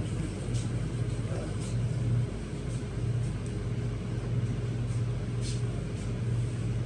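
Inside the carriage of a suburban electric train: a steady low hum that swells and eases slightly, with a faint steady higher tone and a few light clicks.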